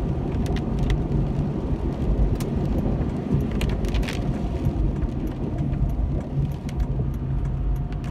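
Car driving, heard from inside the cabin: a steady low engine and road rumble with scattered sharp clicks and ticks.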